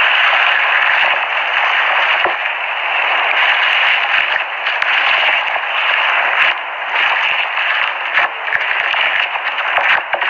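Loud, steady static hiss with scattered crackles and clicks, like a detuned radio.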